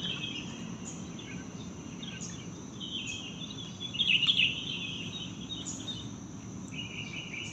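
Night-time outdoor chorus of insects: a steady high chirring, with repeated bursts of chirping calls, the loudest about four seconds in.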